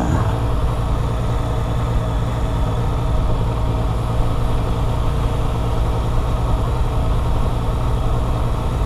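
Motorcycle engine running steadily at low revs, a continuous low hum with no change in pitch.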